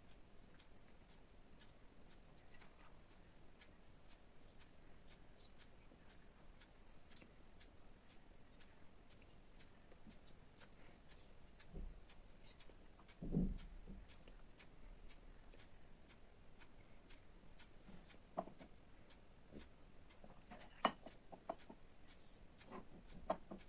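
A clock ticking faintly and evenly, about two ticks a second, with a soft thump about halfway through and a few light knocks near the end.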